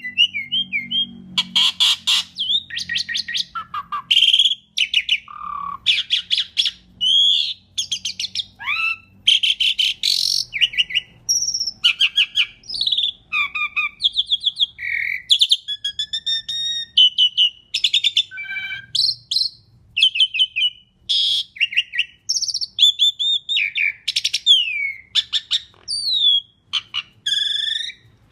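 Asian pied starling (jalak suren) singing a fast, varied song: whistled notes gliding up and down mixed with harsh rattling clicks and chatter, phrase after phrase with hardly a pause.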